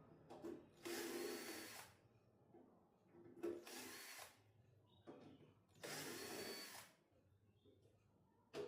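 A small handheld power tool running in three short bursts of about a second each, with a faint high whine.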